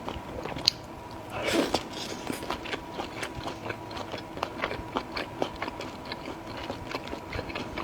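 Close-miked chewing of grilled squid: a steady run of small wet clicks and smacks, with one louder, crunchier bite about a second and a half in.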